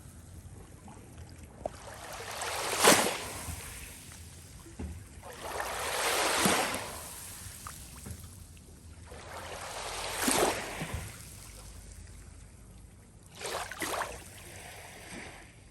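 Water washing in regular surges, one about every four seconds, each rising and falling away.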